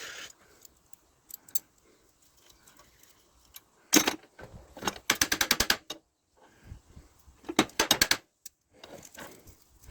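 Metallic clicking and rattling from a hand tool working at a grub screw in a brass scrap fitting that looks stripped. There is a sharp click about four seconds in, then two quick runs of rapid clicks, one around five seconds in and one around eight.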